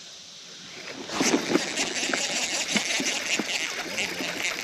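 Shallow creek water splashing and sloshing in quick, irregular splashes, starting about a second in after a faint steady background.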